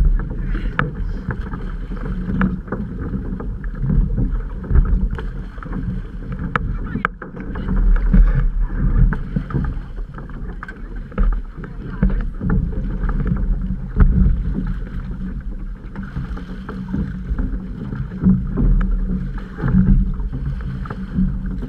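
Muffled rush and slosh of water around a moving outrigger canoe, with scattered knocks against the hull, heard through a GoPro's housing.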